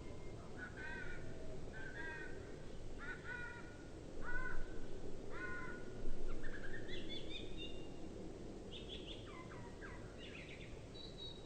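Tūī calling: a run of short, repeated notes about a second apart, then a rising glide and higher squeaky notes, sounding low and drawn-out because the recording is played at half speed. Two louder noisy swells come about four and six seconds in.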